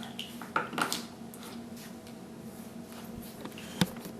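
Light handling of plastic toy eggs: a few soft clicks and taps, the sharpest near the end, over a faint steady hum.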